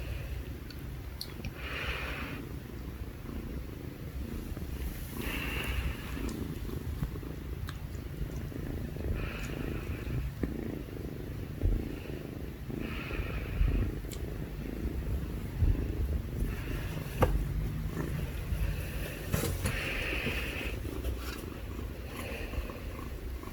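Two kittens purring: a steady low rumble, with a short breathy hiss every few seconds.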